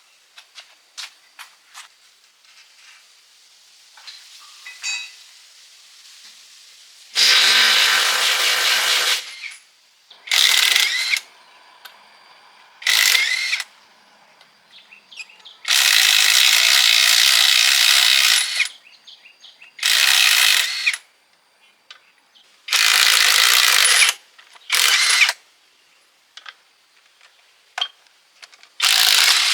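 A power tool run in repeated short bursts, eight in all and each lasting from half a second to about three seconds, with abrupt starts and stops. Light clicks and knocks of work between the bursts.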